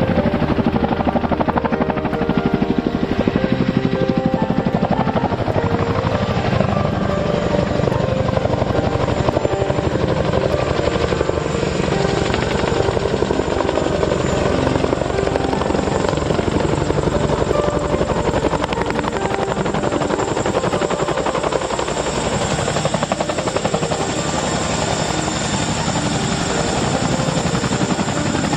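Boeing CH-47 Chinook tandem-rotor helicopter running close by: its rotor blades beat rapidly and steadily, with a steady high turbine whine that grows stronger toward the end.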